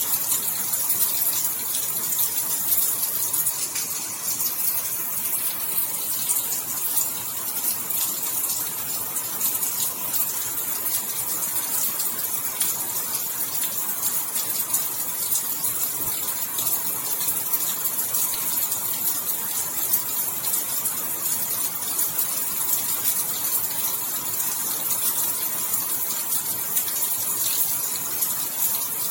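Steady rain falling, a dense hiss with fine crackle of drops, even throughout.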